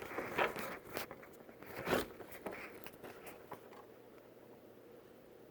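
Handling noise from a camera being moved and set up at a window: a few clicks, knocks and scrapes, the loudest about two seconds in, then faint room noise.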